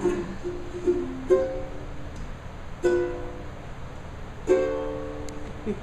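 Ukulele playing the closing chords of the song: single strummed chords about every second and a half, each left to ring and fade.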